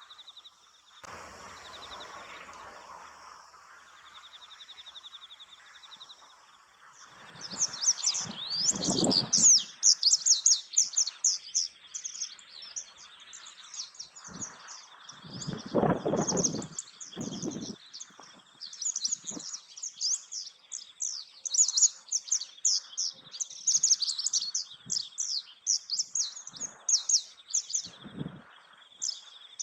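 Small songbirds chirping and twittering in a rapid, overlapping run of high notes that starts about seven seconds in. Underneath is a steady high tone, and a few low thumps come through.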